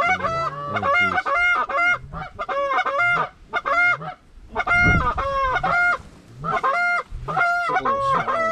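Geese honking: a rapid, loud run of many honks with a few brief pauses.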